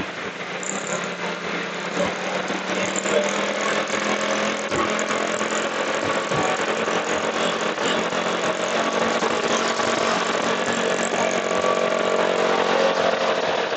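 Motorcycle engine running steadily under a dense rush of road and traffic noise, growing somewhat louder toward the end.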